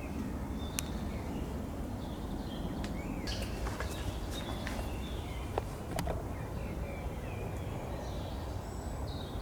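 Outdoor ambience: scattered short bird chirps over a steady low background rumble, with a few sharp clicks.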